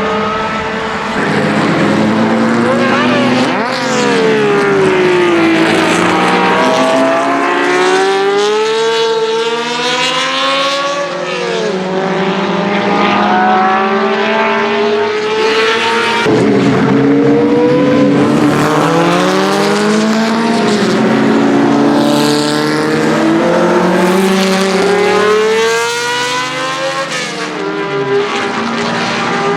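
Ferrari 1512's 1.5-litre Tipo 207 flat-12 racing engine at full race pace. Its high, multi-toned note climbs and drops again and again as the car accelerates, shifts and slows around the circuit.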